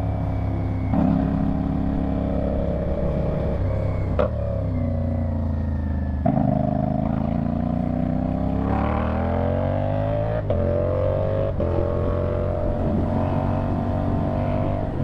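CFMoto 450SR parallel-twin engine through a slip-on exhaust under way, its pitch rising and falling through several gear changes. Sharp cracks mark some of the shifts.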